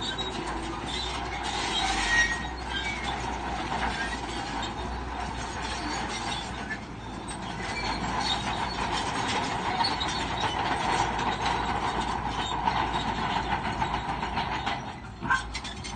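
Crawler bulldozer working: steel tracks clanking and squealing over a steady diesel engine, with a brief lull and a sharp clank near the end.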